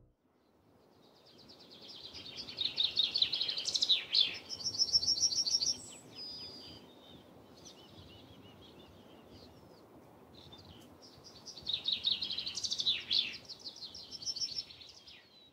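A songbird singing: two long phrases of rapid, high trilling notes, one starting about a second and a half in and one about ten seconds in, with softer chirps between them over faint background noise.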